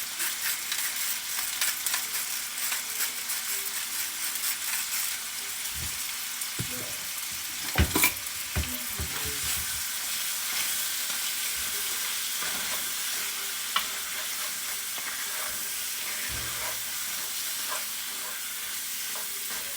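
Bite-sized chicken thigh pieces sizzling steadily in olive oil and butter in a cast iron skillet. A few sharp knocks come through the sizzle, the loudest about eight seconds in.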